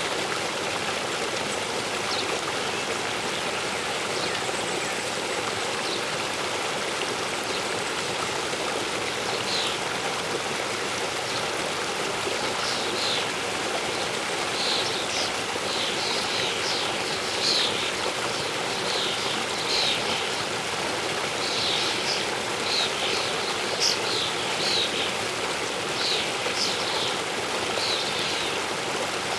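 A waterfall rushes steadily, with small birds chirping over it in short high calls that come more often from about halfway through.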